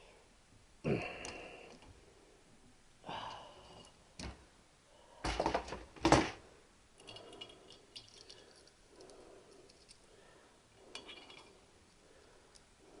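Metal tools and small steel valve parts clinking and scraping during valve removal from a motorcycle cylinder head with a valve spring compressor, with two louder metallic knocks a little past the middle.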